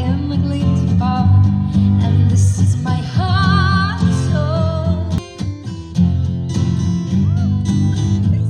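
Music: strummed acoustic guitar with a singing voice that holds notes with vibrato about three seconds in. The music briefly drops away about five seconds in, then picks up again.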